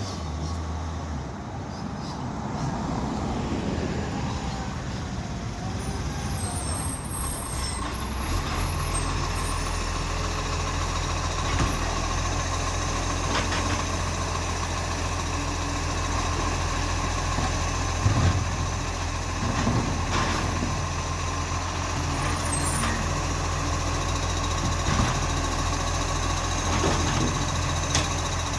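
Garbage truck running, its engine hum stepping up about eight seconds in and holding there, with a steady whine and a few sharp clanks.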